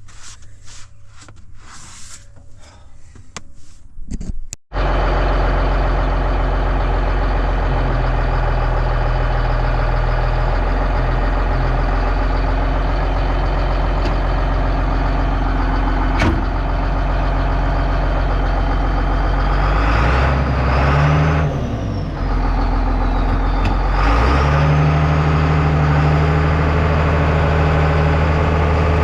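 Bulldozer's diesel engine starting about five seconds in, after a few clicks and rattles, then running steadily. Around twenty seconds in its pitch dips and rises, then settles at a higher speed.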